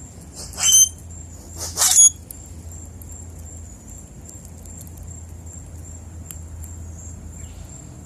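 Two loud, harsh bird calls about a second apart, over a steady, high, pulsing insect trill in the background.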